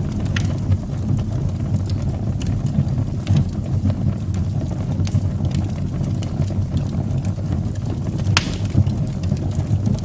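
Wood fire burning in a fireplace: a steady low rumble of flames with scattered crackles and pops, one sharper pop about eight seconds in.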